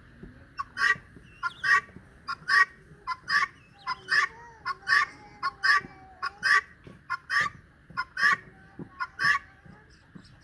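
Domestic turkey calling repeatedly, about one sharp call a second, eleven in all, with a softer wavering call beneath from about four to seven seconds in.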